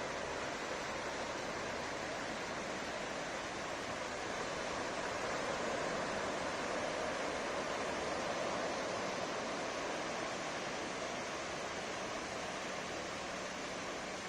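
Ocean surf washing onto a sandy beach: a steady rush of breaking waves that swells slightly in the middle.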